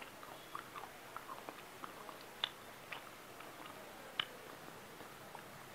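Faint close-miked chewing of a mouthful of rice and bony hilsa fish head, with small wet mouth clicks scattered throughout and two sharper clicks about two and a half and four seconds in.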